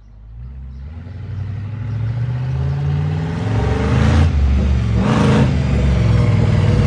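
Engine of a twin-turbocharged 1926 Ford T-bucket hot rod running and growing louder over the first few seconds. There are two brief rushes of noise about four and five seconds in.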